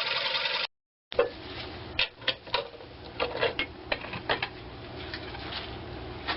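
Woodturning lathe running as a tool cuts the bowl, cut off abruptly. After a short silence, irregular sharp knocks and clicks come over a steady low motor hum.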